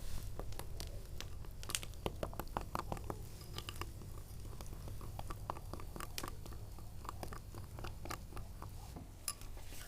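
Irregular light clicks and scrapes of a utensil in a bowl as spices and soy sauce are mixed into sunflower oil for a marinade, over a low steady hum.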